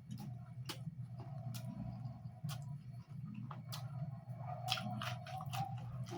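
Close-miked chewing of pork curry: irregular wet mouth clicks and smacks, over a steady low hum.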